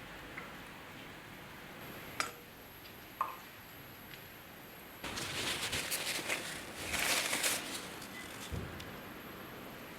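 Handling sounds: two light clinks about a second apart, the second with a short ring, then about three seconds of crackling rustle.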